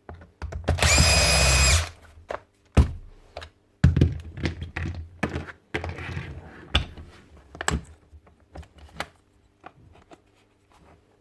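Paslode IM65A gas nail gun's fan motor spinning with a high steady whine for about a second, the gun not firing. Then a series of clicks and knocks from the tool being handled.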